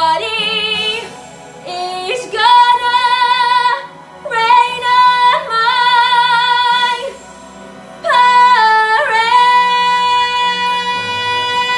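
A woman singing a Broadway show tune over backing music, in held phrases with vibrato, ending on one long high held note from about nine seconds in.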